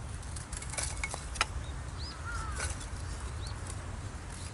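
Knife shaving curls off a wooden stick for a feather stick: a few short scraping strokes in the first second and a half. Then a few short bird chirps, over a low steady rumble.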